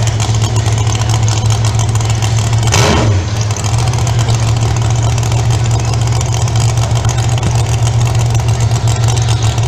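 Monster truck engine running steadily at a constant pitch, a loud low drone, with a short break in the sound about three seconds in, as the truck waits for its green light.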